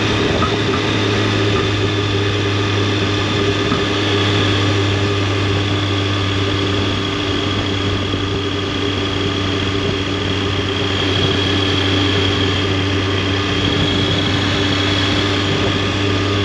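Triumph Tiger 800's three-cylinder engine and exhaust running steadily at an even pitch while riding.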